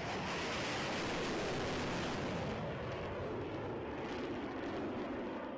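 Jet aircraft engine noise: a steady, dense rushing sound with no distinct tones, easing slightly near the end.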